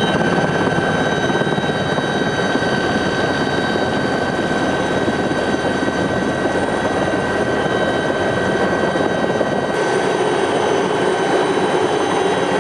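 A loud engine running steadily, with a high whine over a rushing roar; its sound shifts slightly about ten seconds in.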